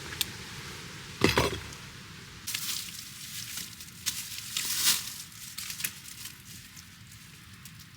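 Camp cookware and gear being handled: a sharp knock with a short ring about a second in, then rustling scrapes and small clinks.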